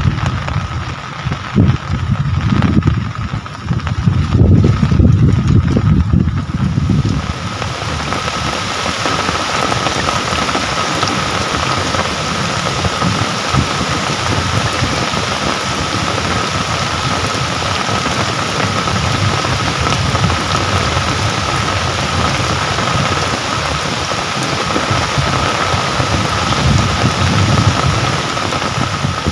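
Steady rainfall, an even hiss. During the first several seconds a low gusty rumble buffets over it, which falls away about seven seconds in. A faint steady high tone runs under the rain.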